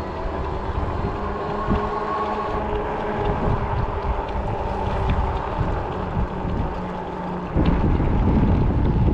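Ecotric 20-inch folding fat-tire e-bike riding along, its motor giving a faint steady whine over the rolling noise. Wind rumbles on the microphone and gets louder about seven and a half seconds in.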